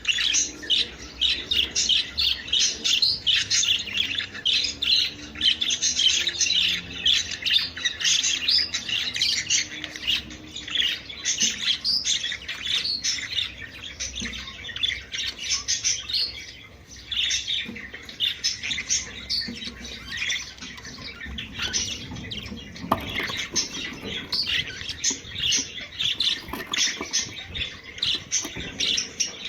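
Budgerigars chattering and warbling with rapid, overlapping chirps and squawks and no pause: the budgie mating-call chatter used to stimulate breeding.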